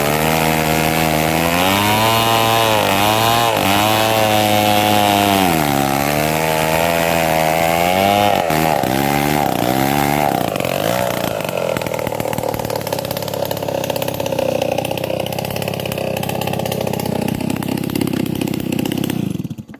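Chainsaw cutting mahogany, its engine pitch rising and falling over and over as the chain loads and frees in the wood. About halfway through, the sound turns rougher and less clearly pitched, and it cuts off suddenly at the end.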